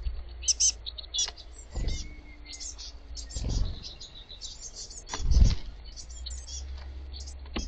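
Young blue tits giving many short, high chirping calls in quick succession. A steady low rumble runs underneath, and there are three dull thumps, the loudest a little past the middle.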